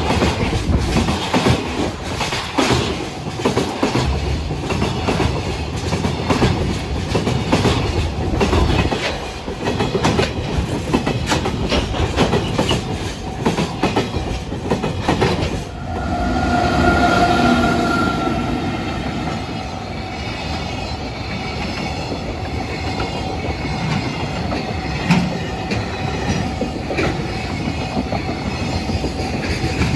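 Container freight train passing close at speed, its wagon wheels clattering rapidly over the rail joints. About halfway through, the sound gives way to a smoother, quieter train rumble with a steady high ringing tone over it.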